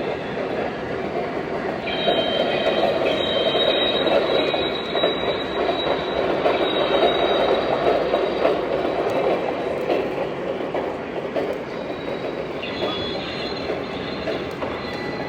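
Model train running on its track with a steady rumble. High-pitched wheel squeal begins about two seconds in, stops, and returns near the end.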